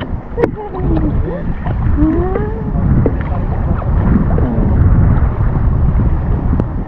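Sea water sloshing and wind buffeting a microphone held in the sea, giving a heavy low rumble. A few faint cries rise and fall in pitch in the distance about one to three seconds in.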